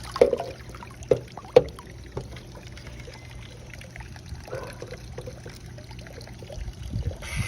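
Pool water splashing a few times in the first couple of seconds, then trickling steadily, stirred by a cordless pool leaf vacuum being worked through the water on a pole.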